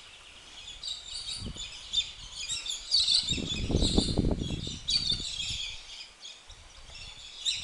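Small birds chirping and calling, with a louder rustling, scuffling noise for a couple of seconds around the middle.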